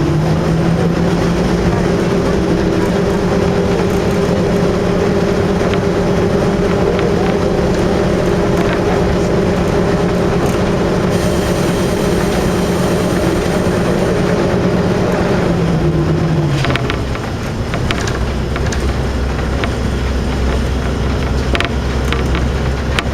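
KiHa 52 diesel railcar's engines running under power with a steady drone. About two-thirds of the way through the throttle is eased and the drone falls away as the railcar coasts, leaving a low rumble of wheels on rail with scattered clicks and rattles.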